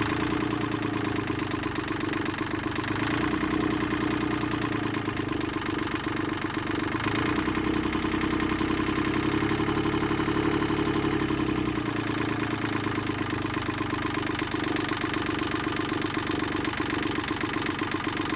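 Rebuilt Yanmar 3GM30F three-cylinder marine diesel running steadily at idle, running smoothly after its rebuild. It gets a little louder for a stretch in the middle and settles back about twelve seconds in.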